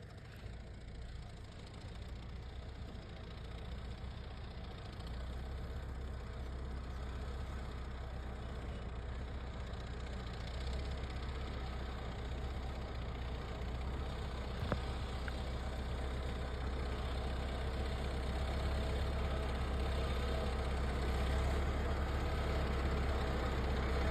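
Tractor engine running steadily at low revs, growing slowly louder, with one sharp click about two-thirds of the way through.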